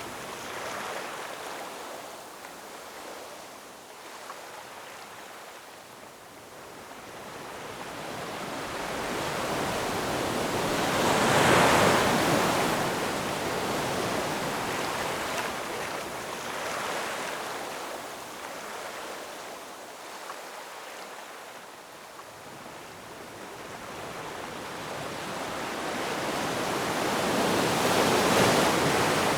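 Ocean waves breaking and washing in, two large waves swelling to a crash about a third of the way in and again near the end, with softer surf between.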